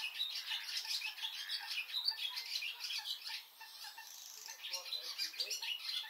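High-pitched bird calls in rapid, chattering succession, many short notes a second, easing off briefly a little past halfway before picking up again.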